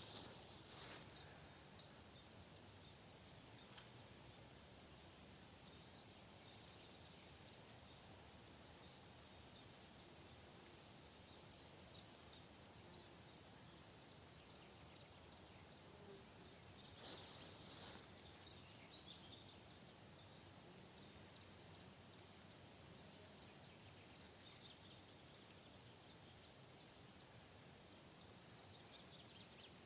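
Near silence: faint outdoor ambience, with scattered faint high chirps and a brief rustle about seventeen seconds in.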